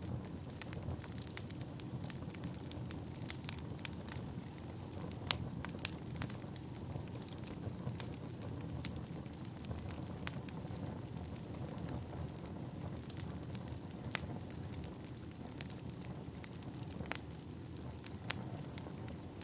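Firewood burning: a steady low rush of flames with frequent irregular sharp pops and snaps from the logs.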